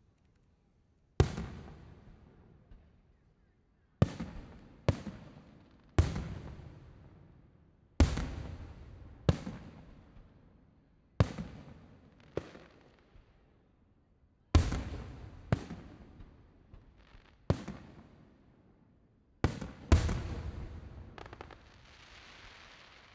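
Aerial firework shells bursting: about a dozen sharp booms at irregular intervals, each trailing off in a long rolling echo. Near the end a steady hiss lingers for a couple of seconds after one burst.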